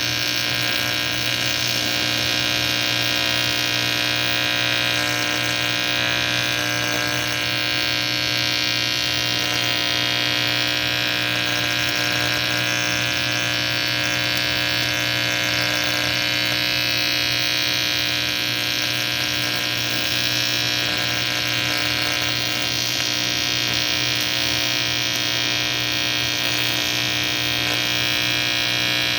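Welding arc on a cast aluminium AFR cylinder head, a steady electric buzz that runs without a break.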